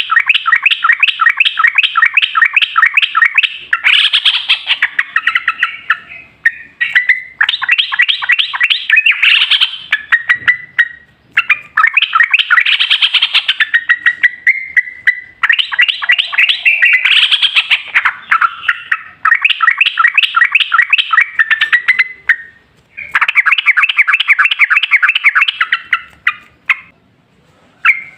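Yellow-vented bulbul (trucukan) singing: long, fast runs of repeated chattering notes, given in bouts of a few seconds with short pauses between them.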